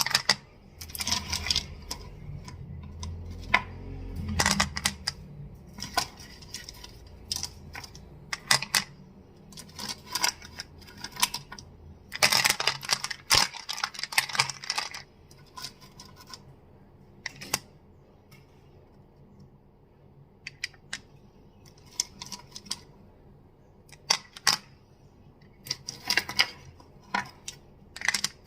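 Crystals clicking and clacking as they are tapped together close to the microphone: sharp clicks in irregular clusters with short pauses between them.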